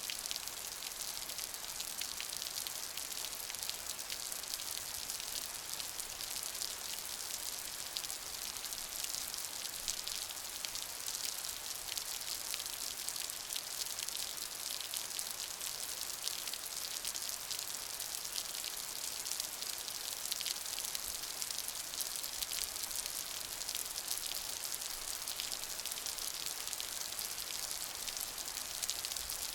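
Steady rain falling, a dense even hiss of many small drop impacts that neither builds nor fades.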